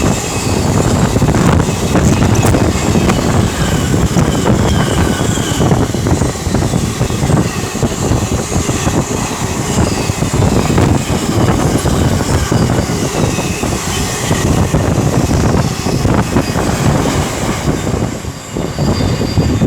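DB Cargo Class 66-hauled container freight train passing at speed, a steady loud rumble of its wagons running over the rails, with some wind noise. The sound dips briefly near the end.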